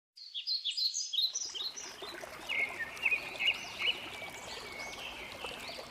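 Several birds chirping and singing: quick falling notes at first, then repeated short chirps, over a steady hiss that comes in about a second and a half in.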